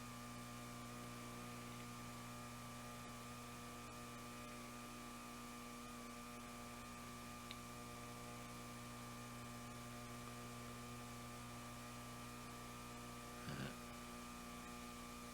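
Steady electrical mains hum with a stack of overtones, with a brief faint noise near the end.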